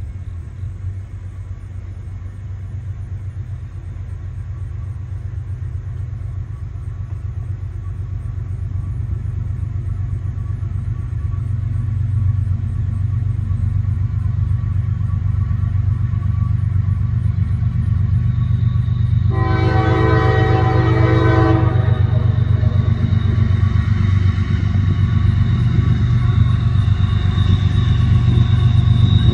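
Approaching CSX freight train: the diesel locomotives' low engine rumble grows steadily louder. A multi-tone train horn gives one blast of about two seconds roughly two-thirds of the way through, and sounds again at the very end.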